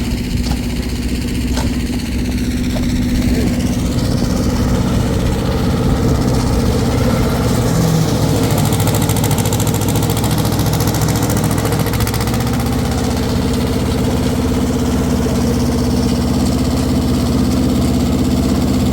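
An engine running steadily at an even speed, growing a little louder about four seconds in.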